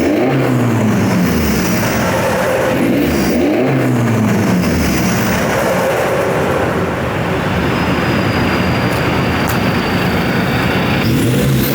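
Hyundai Accent's turbo-diesel engine, with a straight-pipe exhaust and a new intake, revved in short blips that rise and fall, once at the start and again about three seconds in, then running steadily before another rev near the end.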